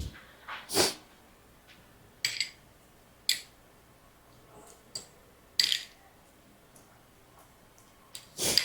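A utensil knocking and scraping against a bowl while chopped garlic and parsley are mixed into softened butter: about six short, separate clinks every second or two.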